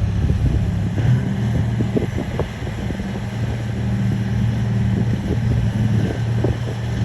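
Bulldozer's diesel engine running steadily with an even, low hum.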